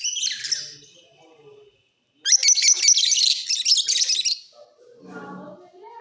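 Lovebirds chirping in rapid, high-pitched chatter: a short burst at the start, then a longer, louder stretch from about two to four seconds in.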